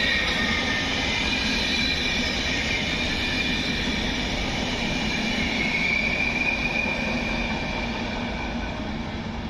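A train running past on the line, a dense rumble with faint high whining tones from the wheels, slowly fading as it moves away.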